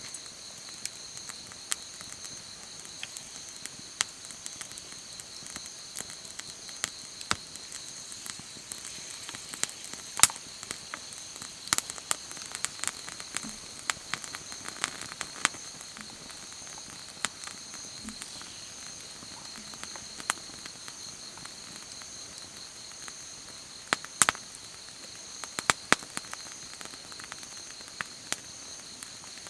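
Wood campfire crackling, with sharp irregular pops scattered throughout, a few of them louder, over a steady high-pitched insect chirring.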